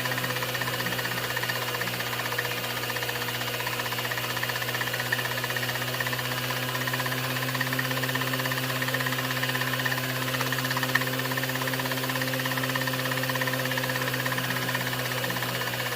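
A 16mm film projector running: a steady mechanical hum and whirr with hiss, unchanging throughout.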